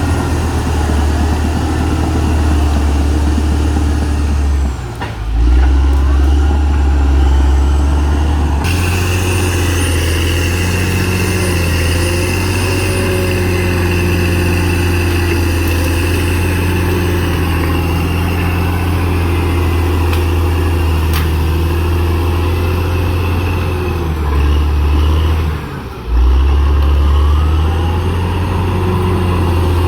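Diesel engine of a CAT D6R XL crawler bulldozer running steadily under load. The engine note dips briefly and then surges louder twice: about five seconds in, and again a few seconds before the end.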